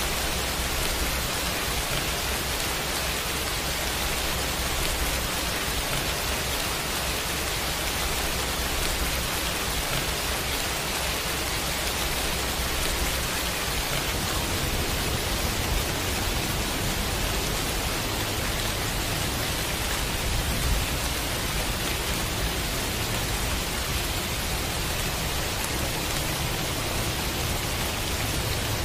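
Steady pouring rain, an even hiss with no breaks or swells.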